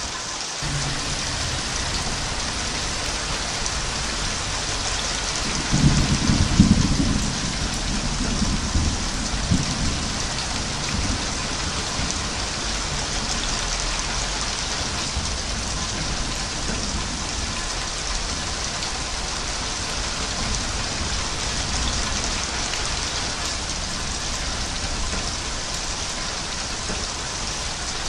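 Steady heavy rain, an even hiss. About six seconds in, a roll of thunder rumbles low and dies away over the next few seconds.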